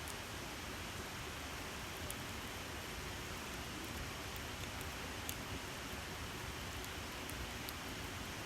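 Campfire burning with a steady hiss and a few sharp crackles and pops of the wood.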